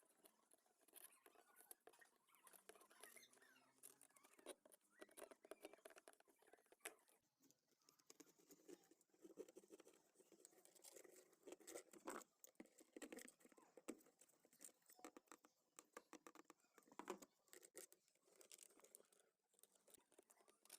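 Faint, irregular clicking, scratching and rustling, like small things being handled, just above near silence.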